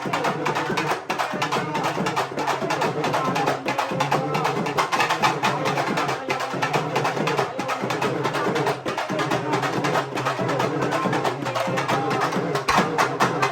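Urumi melam drum ensemble playing a fast, dense rhythm of stick strokes over a sustained pitched drone, without a break.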